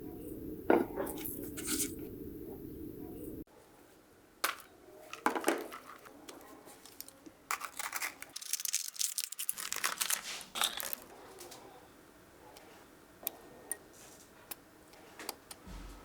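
Hand-work on a small diecast model car: scattered light clicks, taps, scrapes and crinkling of small parts being handled. A steady low hum runs under the first few seconds and cuts off abruptly.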